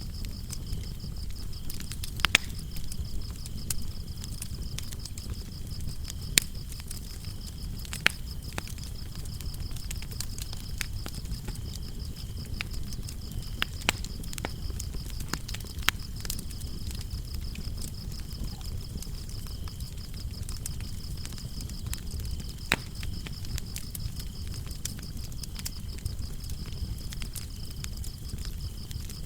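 Fireplace fire burning with a low steady rumble and scattered sharp crackles and pops, the loudest a few seconds apart. Crickets chirp steadily throughout as a fine high trill.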